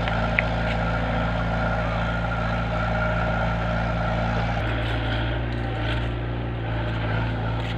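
A large engine running steadily at a constant speed, a low even hum that holds its pitch, with a slight change in its sound about halfway through.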